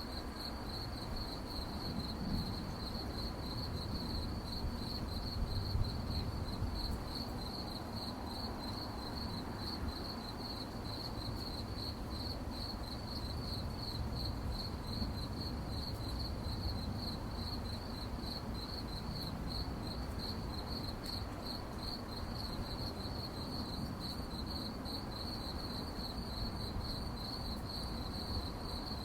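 Crickets chirping at night, a steady, rapid, high-pitched pulsing trill that never stops, over a low background rumble.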